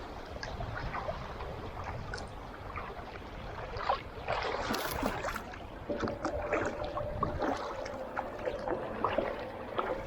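Kayak running shallow rapids at a broken dam: rushing water with paddle splashes and knocks against the hull, and a bigger splash about four seconds in. A thin steady tone comes in about six seconds in and holds to the end.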